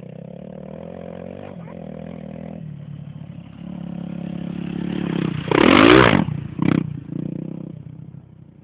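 Honda Tornado trail motorcycle's single-cylinder four-stroke engine running on a dirt track, growing louder as it approaches and passes close by about six seconds in with a sweep in pitch, a second short burst of throttle just after, then fading away.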